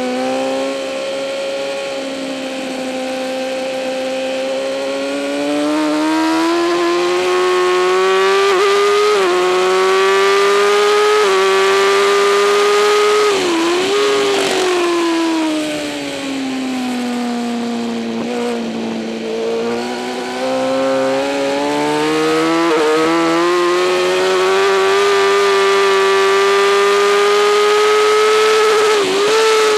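2008 Kawasaki ZX-10R's inline-four engine at race pace. The revs climb with brief dips at upshifts, fall away for several seconds about halfway through as the bike slows, then climb again, with rushing wind noise throughout.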